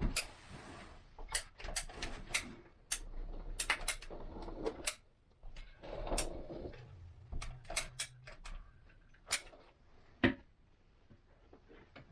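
Irregular sharp clicks and knocks of hand work on a window installation, with short scraping rustles near the start and about six seconds in; the clicks thin out over the last couple of seconds.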